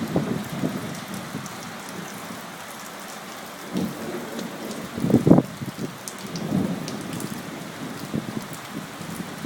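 Thunderstorm: steady rain hiss with irregular rumbles of thunder, the strongest about five seconds in.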